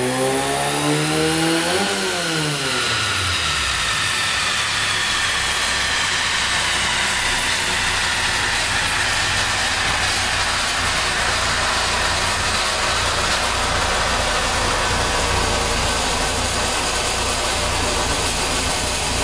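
Fiat 128's engine revved, its pitch climbing and then dropping back fast about two seconds in, after which it idles steadily. A high whine falls slowly away over the next several seconds.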